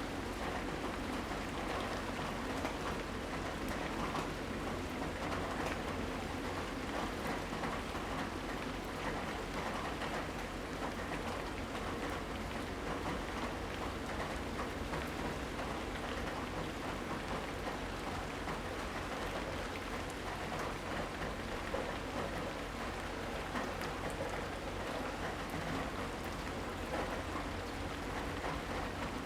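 Steady rainstorm: rain falling with a dense, even patter of drops, over a low steady rumble.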